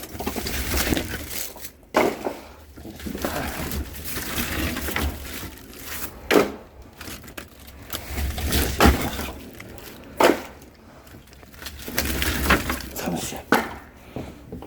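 Split firewood logs knocking and clattering as they are handled, with several sharp, irregular wooden knocks over a low rumble.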